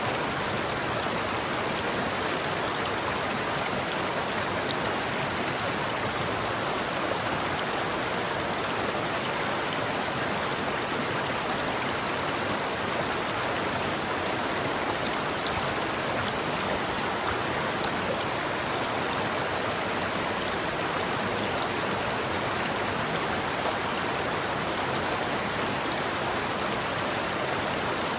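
River water flowing and splashing over rocks in a steady rush, with no changes or separate events.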